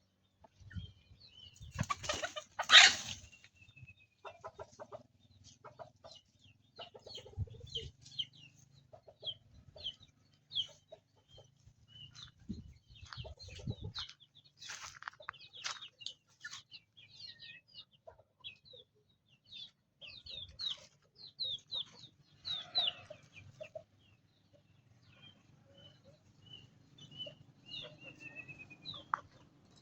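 Chickens clucking while chicks peep in many short, high, falling chirps, with a loud burst of noise about two seconds in.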